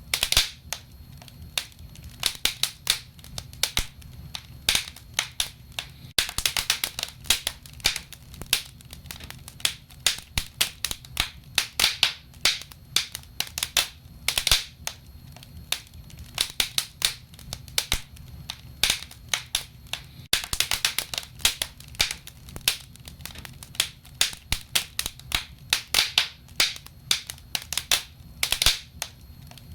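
Wood fire crackling, with many sharp pops and snaps, some in quick clusters, over a low steady rumble of the burning logs.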